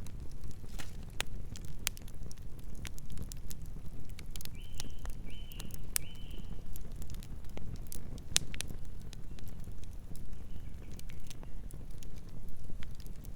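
Wood campfire burning: irregular sharp crackles and pops over a steady low rumble. A little before halfway come three short, faint whistling notes.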